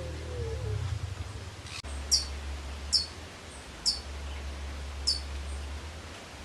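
A bird calling: four short, high chirps, each slurring downward, about a second apart, over a steady low rumble.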